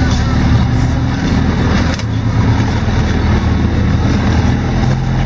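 4x4's engine running steadily, heard from inside the cabin over tyre and road noise, with a brief dip about two seconds in.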